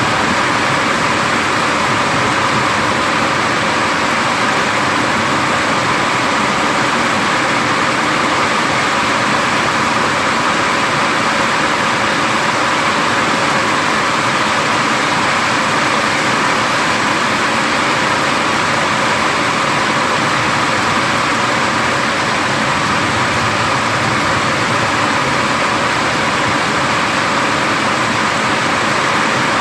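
Heavy rain pouring steadily during a thunderstorm, an even hiss with no thunderclaps.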